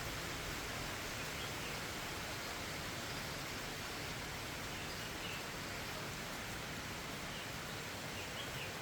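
Steady rain falling, an even hiss, with a few faint high chirps.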